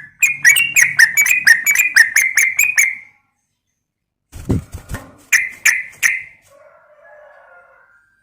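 Yellow-vented bulbul (trucukan) calling: a fast run of about a dozen sharp chirps, about four a second, then three more after a pause broken by a low thump. A soft, lower warble follows near the end.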